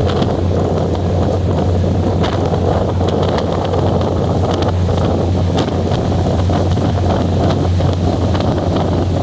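Passenger train running along the line: a steady low rumble and hum with faint scattered clicks, and wind buffeting the microphone.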